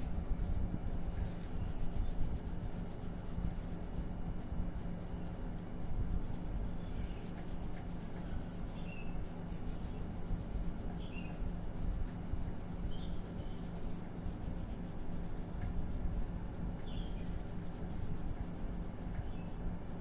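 Drawing or colouring strokes rubbing on paper, a continuous scratchy friction over a steady low hum.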